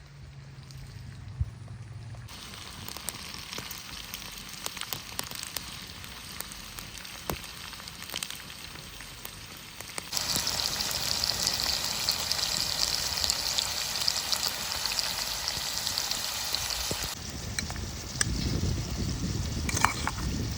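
Food frying and sizzling in hot oil in a pan, with scattered crackles and pops. The sizzle jumps much louder about halfway through, then drops back near the end.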